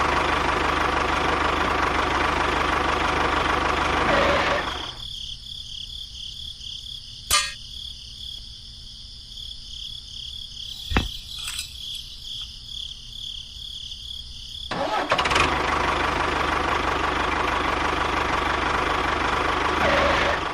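A motor runs steadily for about four seconds, drops to a faint high whine with a couple of sharp clicks for about ten seconds, then runs steadily again.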